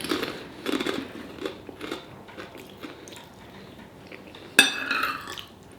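A person biting and chewing crunchy food, with a few sharp crunches in the first two seconds. About four and a half seconds in there is a brief, louder, higher-pitched sound.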